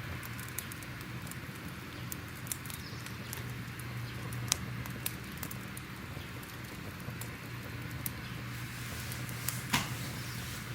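Fire crackling: a steady hiss with irregular small snaps and a couple of louder pops, over a low steady hum.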